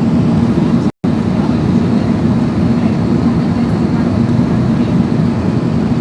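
Steady rumble of engine and airflow noise inside the cabin of an Airbus A380, with a brief cut to silence about a second in.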